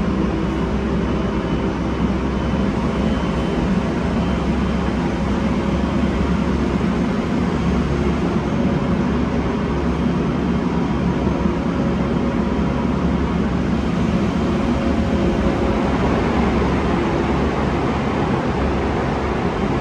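A train running by, a steady loud rumble with a low, even hum throughout.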